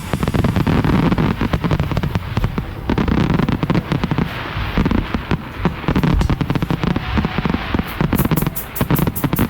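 Fireworks display: a dense, unbroken run of shell bursts and bangs. Near the end comes a fast, even series of sharp cracks, about five a second.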